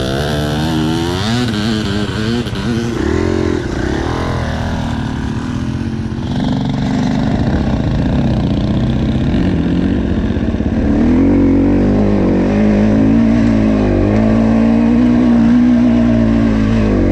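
Dirt bike engine running under way, its pitch swooping up and down repeatedly in the first few seconds. From about two-thirds of the way in it runs louder and steadier.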